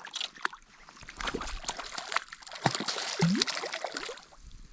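Water splashing and trickling close by, with many small clicks and drips, louder from about a second in until near the end.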